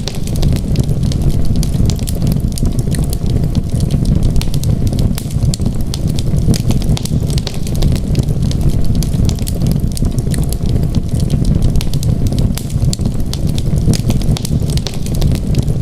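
Wood fire in a fireplace crackling: many small sharp pops and snaps over a steady low rumble of the flames.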